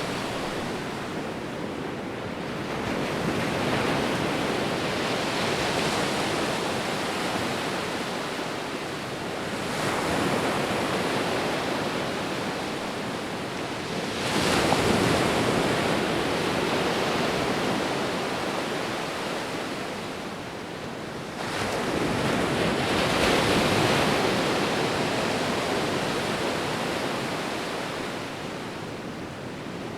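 Ocean waves breaking and washing ashore, a steady rush of surf that swells with a fresh wave every five to eight seconds, strongest about 14 and 22 seconds in.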